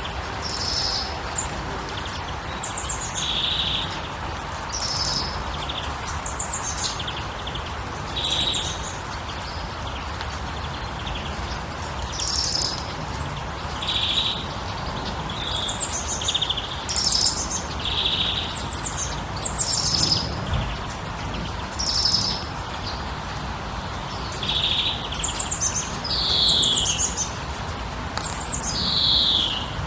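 Songbirds chirping in short repeated calls every second or two, with a few falling sweeps near the end, over a steady rushing background noise.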